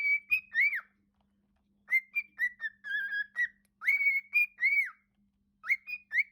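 Parrot whistling in four short phrases of clear notes that glide up and down, with pauses of about a second between phrases.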